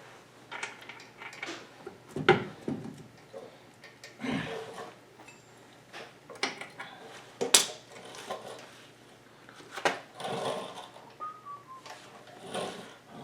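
Irregular clinks, clicks and knocks of metal parts and tools being handled during wheel bearing work, with two sharper knocks about two seconds in and past halfway.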